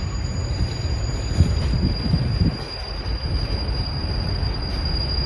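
Coal train's coal cars rolling past slowly, a steady low rumble of wheels on rail with a few heavier clunks about a second and a half in, and a thin steady high whine over it.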